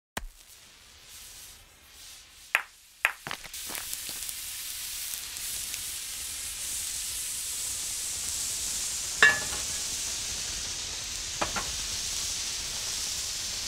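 Food sizzling in a hot frying pan, like an egg frying: a few sharp clicks about two to three seconds in, then a steady hiss of frying with a couple of louder pops, cutting off suddenly at the end.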